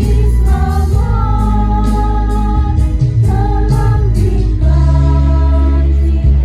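A choir of teachers and staff singing with instrumental accompaniment that keeps a steady beat, settling into long held notes a little after halfway.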